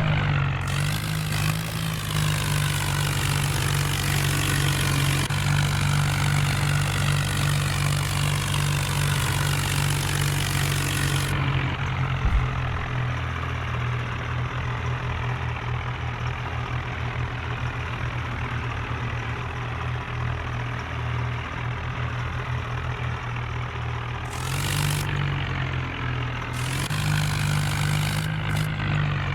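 Diesel tractor engine running steadily under load, easing off about twelve seconds in and picking up again near the end.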